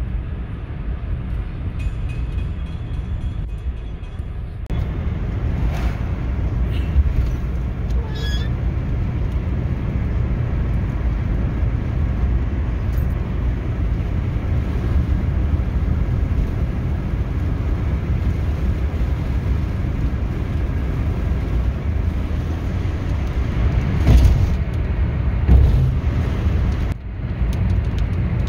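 A moving road vehicle heard as a steady low rumble of engine and road noise, with a couple of louder knocks near the end.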